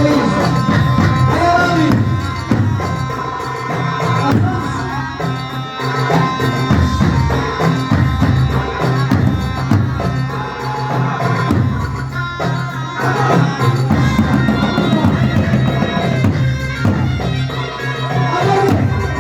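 Traditional Arab wedding music: a reedy wind instrument plays a melody over a steady drone, with drums and percussion.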